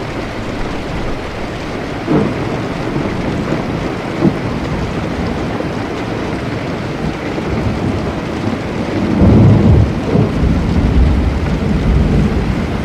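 Thunderstorm with steady rain falling. There are two sharp cracks about two and four seconds in, then a low roll of thunder builds from about nine seconds on and is the loudest part.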